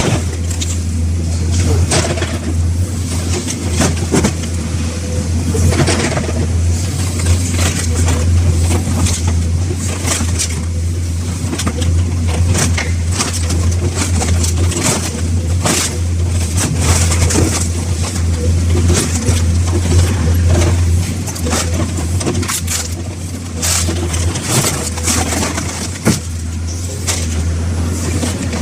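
A heavy engine running steadily, with many irregular metal crunches and knocks over it, as scrapyard machinery works on old car bodies.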